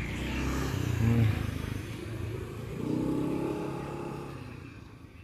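A motor vehicle engine running past, loudest about a second in and fading away toward the end.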